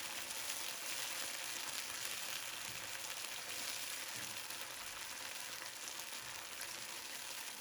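Onion and tomato sauce sizzling in a pan, a steady hiss with faint crackles.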